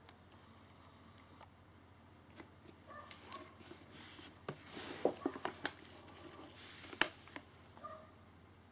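Scattered clicks, taps and rustling of things being handled at close range, loudest about five and seven seconds in, with a few short squeaky chirps.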